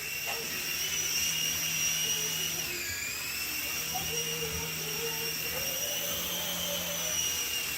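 Sky Rover Vigilante toy RC helicopter in flight: its small electric motors and rotor blades give a steady high whine. The pitch dips about three seconds in and slowly climbs back.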